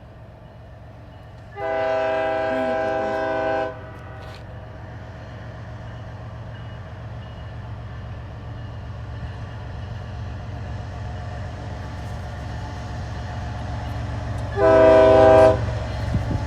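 GE ES44AC diesel locomotive's multi-chime air horn sounding one long blast of about two seconds, then a shorter blast near the end. Under it, the low rumble of the locomotive grows steadily louder.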